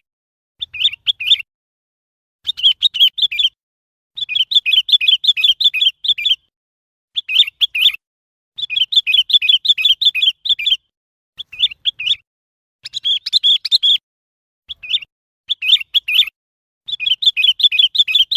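Sooty-headed bulbul calling: quick runs of high chirping notes, repeated phrase after phrase, each lasting from half a second to about two seconds, with short silent gaps between.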